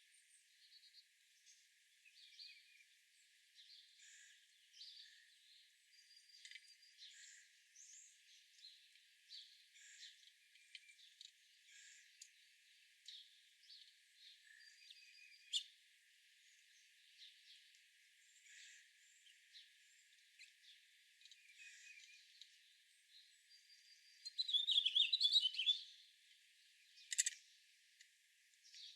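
Wild birds chirping faintly and sporadically, with a louder burst of rapid warbling song about twenty-four seconds in and a single sharp call a moment later.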